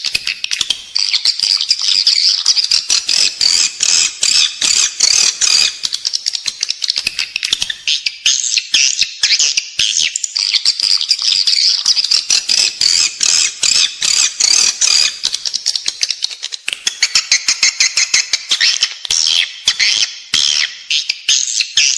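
Edible-nest swiftlet calls: a dense, unbroken chorus of rapid, high twittering chirps. This is a lure track, the 'inside the building' calling sound played in swiftlet houses to draw the birds in to roost and nest.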